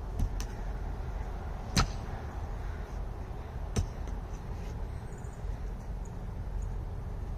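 Hand tool chopping into the exposed roots of a dead cherry tree: three sharp strikes about two seconds apart, the second loudest, with a few fainter knocks afterwards.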